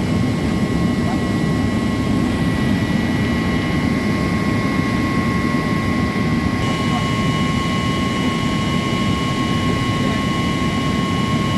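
Loud, steady machinery drone with constant high-pitched whine tones running over it, with no breaks or impacts.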